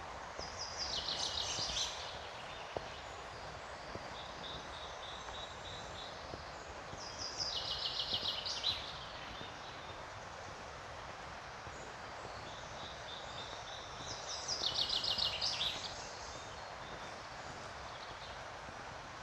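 A songbird repeating a short song of rapid notes that step down in pitch, three times about seven seconds apart, with fainter calls from other birds between, over the steady rush of river rapids.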